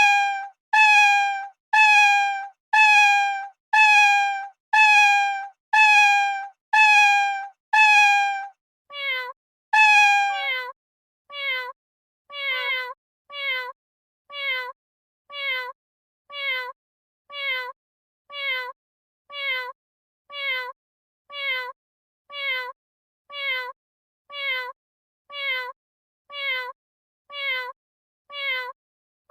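A cat meowing over and over at even spacing, each meow falling in pitch, about one a second. About nine seconds in, the meows turn shorter, quieter and lower, and come a little faster.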